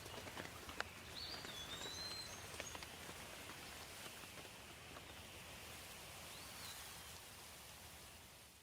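Steady light rain with scattered drops, and a bird giving a short whistled call about a second in and another brief note later; the sound fades away at the end.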